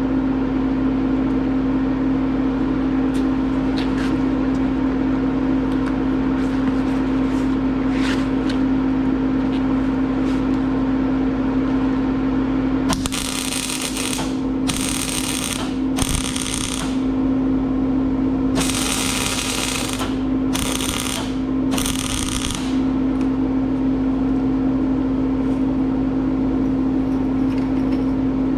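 Wire-feed (MIG) welder arc crackling in six short runs, each a second or two long, through the middle part, over a steady hum.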